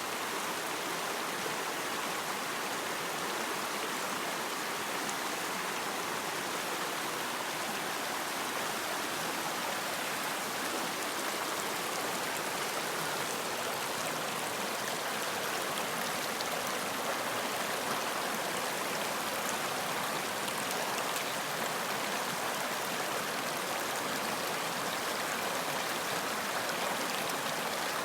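Running water in a stream, a steady rushing and babbling with fine splashes.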